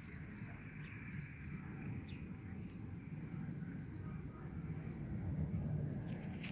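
A small songbird chirping, short high notes repeated every half second or so, often in pairs, over a steady low rumble.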